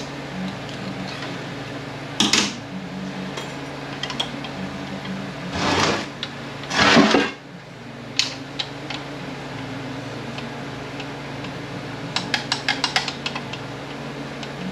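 Metal clinking and scraping as tools and parts are worked against an automatic transmission case while the parking pawl rod is being freed: a knock, two longer scrapes about six and seven seconds in, then a quick run of light metallic taps near the end.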